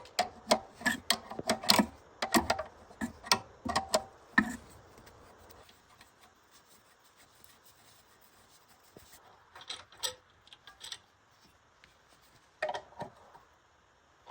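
Irregular metallic clicks and taps of hand tools working on generator parts, several a second for about four seconds, then only a few scattered clicks.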